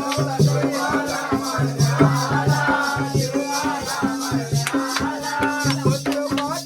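Jakhadi folk dance music: a drum beating a fast, even rhythm with a steady jingling rattle over it and low held tones underneath.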